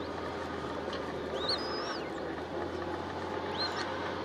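Steady low background rumble with a constant hum, and over it a few short, high-pitched bird calls that glide up and down: a group of notes about a second and a half in and one more near the end.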